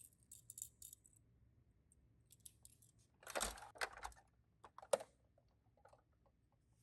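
Tomica die-cast minicars being handled: light rattling in the first second, then a cluster of clicks and knocks a few seconds in and one sharp click about five seconds in.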